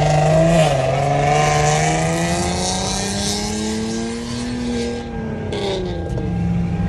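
Car engine at high revs under hard acceleration, its pitch climbing slowly and then dropping back about five seconds in, over a rushing hiss of tyre noise that dies away at the same point.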